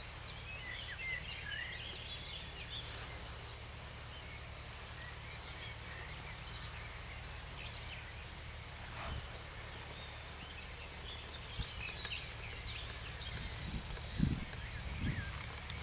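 Small birds singing in quick, warbling phrases, loudest in the first few seconds and again near the end, over a steady low rumble from the distant tractor's engine. A few brief low thumps come near the end.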